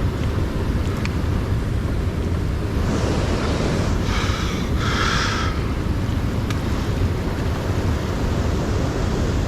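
Steady rushing wind noise on the microphone, with a few short rustling sounds between about three and five seconds in and a couple of faint clicks.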